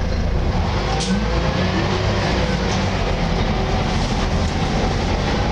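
Volvo B10BLE single-decker bus on the move, heard from inside: the diesel engine's steady low drone under road noise, with a sharp click about a second in.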